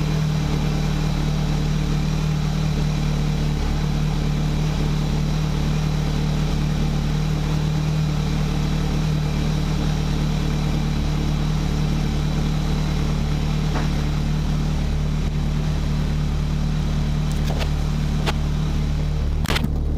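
Rover Metro's 1.8 K-series VVC engine idling steadily, newly running after a gearbox rebuild. A few faint clicks near the end.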